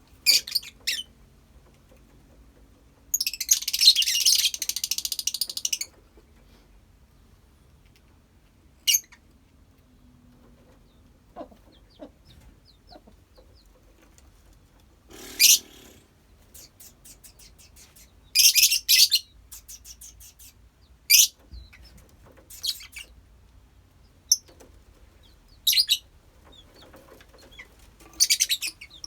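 Lovebirds in a colony giving shrill chirps and screeches in short bursts, with about three seconds of continuous chatter a few seconds in.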